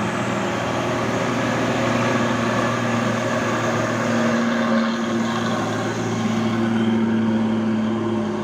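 Heavy loaded diesel truck engine running steadily under load while crawling up a steep grade, a low, even drone that holds one pitch throughout.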